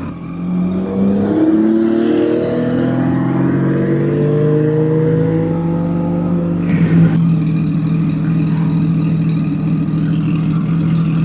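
Kawasaki ZX10R's inline-four engine pulling away, its pitch climbing gradually for several seconds, then holding steady from about seven seconds in.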